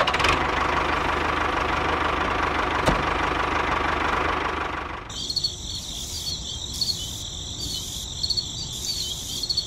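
Miniature tractor's small engine running steadily. About halfway through it gives way to a high-pitched, insect-like chirping over a steady high tone.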